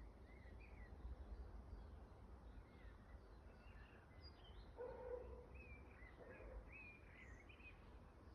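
Faint song of an unidentified small songbird: short chirps and warbled phrases repeating throughout. A brief lower call comes about five seconds in, and a softer one follows a second and a half later.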